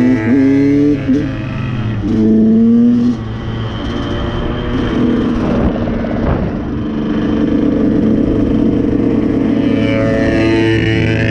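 KTM two-stroke dirt bike engine accelerating through the gears under way, its pitch climbing and dropping back with each shift in the first few seconds. It then runs steadily at speed with wind on the microphone and revs up again near the end.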